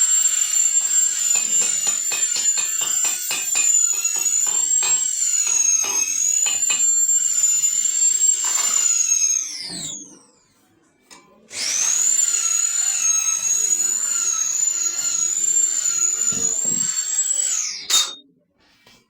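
High-speed electric power tool running with a high-pitched whine, with irregular clicking over its first several seconds. It winds down about ten seconds in, starts again a second and a half later, and winds down again near the end.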